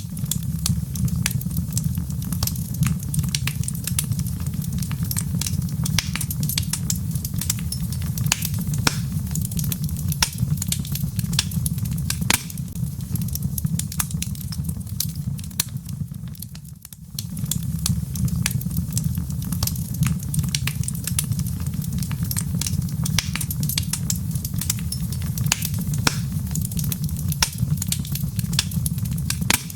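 Logs burning in a fireplace: a steady low rumble of flame under dense, irregular crackles and pops of the wood. It dips away briefly a little past halfway, then resumes.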